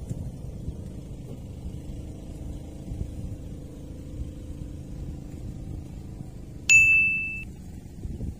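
A single bright ding about two-thirds of the way through, ringing briefly and then cut off short, as an on-screen marker sound effect. Behind it is a steady low rumble of wind on the microphone.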